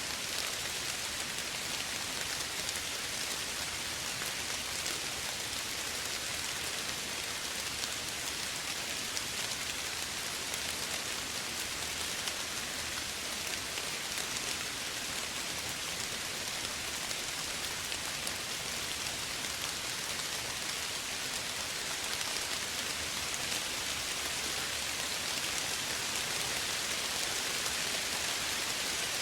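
Steady, even rain falling, a continuous soft hiss of many small drops with no single louder drips or thunder.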